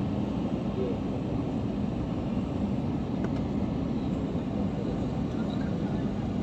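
Steady cabin noise of an Airbus airliner heard from inside the cabin: an even rumble of engines and airflow with a faint steady hum.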